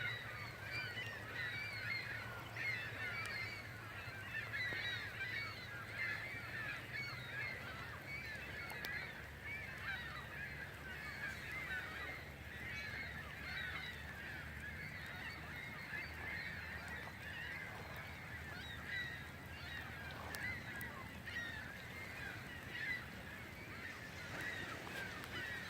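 Many birds calling together without a break, a dense chorus of short overlapping calls, over a steady low hum.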